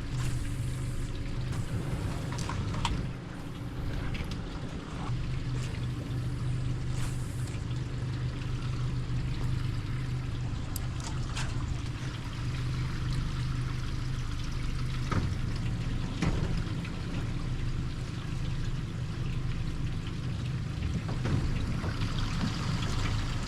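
Water trickling and lapping against a small boat's hull, over a steady low motor hum, with a few faint clicks.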